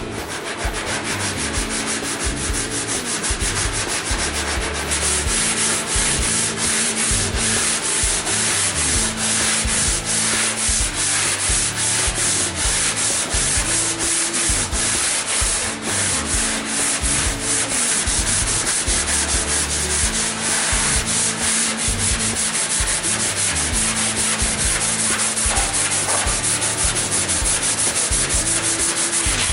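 Sanding on a car body panel: a steady, rapid rasp of many quick back-and-forth strokes.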